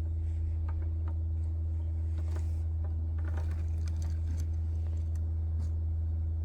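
Scattered light clicks and taps of plastic Lego pieces being handled, over a steady low hum.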